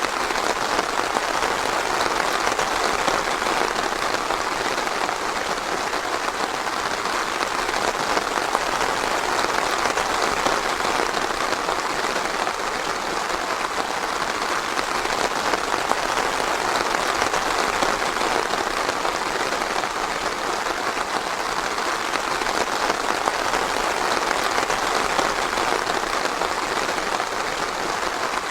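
Steady rain falling on foliage and ground, an even patter without a break or a change in strength.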